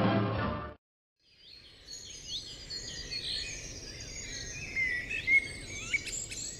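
Choral music cuts off under a second in. After a brief gap, small birds chirp and twitter in quick, high, gliding notes over a faint outdoor background hum.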